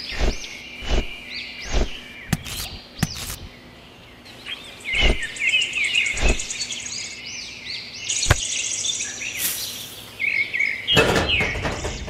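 Birds chirping and twittering throughout, over a string of separate soft knocks as small pebbles are set down among sand and a plastic channel, busier near the end.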